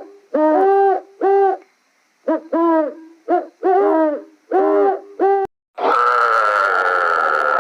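Animal calls: a run of short hooting calls, mostly in pairs, each rising and falling in pitch, then a long, harsh cry starting about six seconds in.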